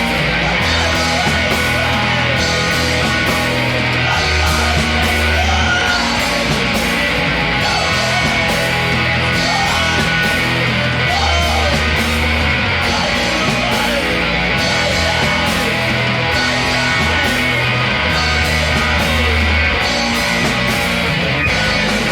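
A rock band playing loud and heavy, with guitar, bass and drums, and a singer yelling over the top.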